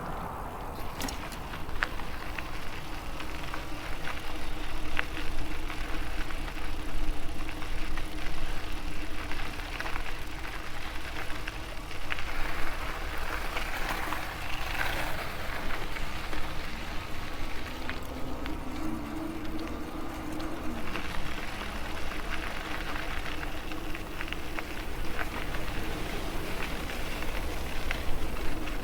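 Electric bike under way: a steady hum from the assist motor over tyre and wind noise, the hum shifting in pitch briefly about two-thirds of the way through.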